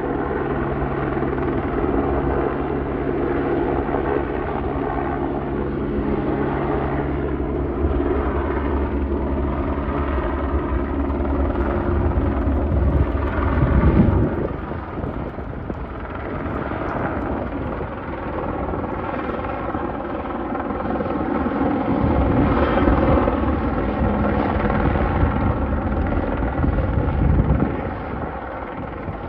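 Single-engine Airbus H125 helicopter flying low overhead: a steady rotor beat with engine whine that swells to its loudest about halfway through as it passes, then changes in tone and fades. It builds again to a second pass near the end.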